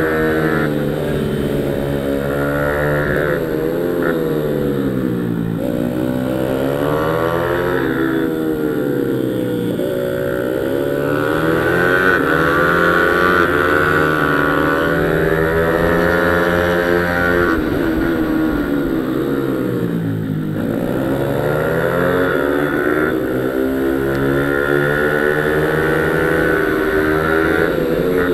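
Pit bike engine revving hard and easing off over and over as it laps a track. The pitch rises through acceleration and drops for braking several times.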